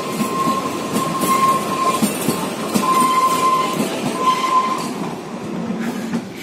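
Kalka–Shimla narrow-gauge train carriages rolling past, wheels clacking over the rail joints. A high wheel squeal comes and goes as they round the curve. The sound fades away after about five seconds.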